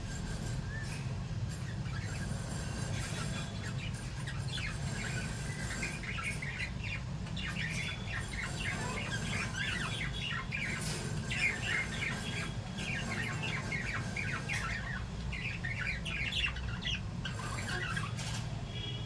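Small pet parrots, lovebirds and budgerigars, chirping and squawking in quick overlapping calls, busiest through the middle, over a steady low hum.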